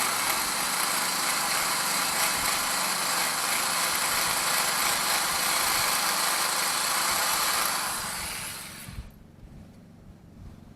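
High-speed grinder deburring the cast-iron block of a Dodge 360 engine, running steadily with a high hiss and whine, then winding down and stopping about nine seconds in.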